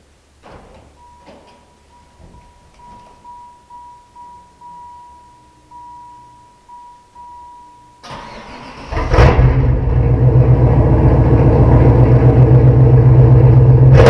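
Stock 1994 Chevrolet Camaro being started: a repeated warning chime beeps, then the starter cranks briefly about eight seconds in and the engine catches within a second and runs loudly and steadily.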